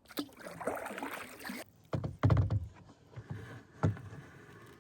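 Water swishing and splashing around a kayak for about a second and a half, then a heavy knock against the kayak's hull about two seconds in, followed by a few lighter knocks.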